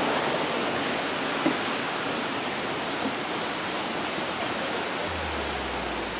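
Rushing water: a steady, even hiss of fast-flowing or falling water. A low hum starts about five seconds in.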